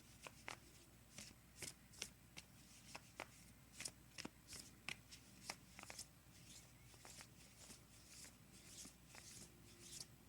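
Oracle cards being shuffled and handled by hand: a run of light, irregular card flicks and taps, a few a second.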